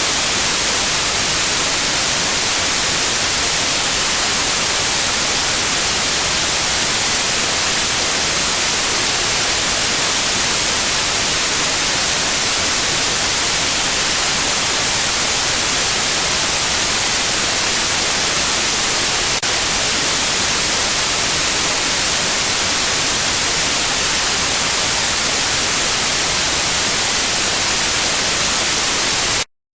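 Steady white noise with a continuous high-pitched 9645 Hz tone over it, a synthetic tinnitus-masking signal. Near the end the tone stops, and a moment later the noise cuts off suddenly.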